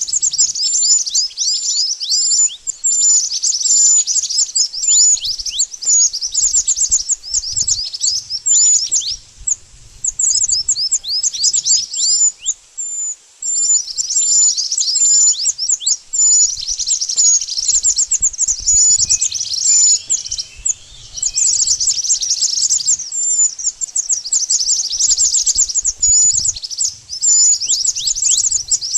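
Mantenan (pied bushchat) song: rapid, high chirping notes in dense phrases a few seconds long, separated by short pauses.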